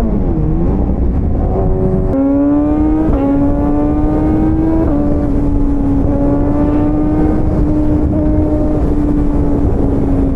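Motorcycle engine running at a steady cruise, its note holding mostly level with a few small shifts in pitch, under a constant rush of wind on the microphone.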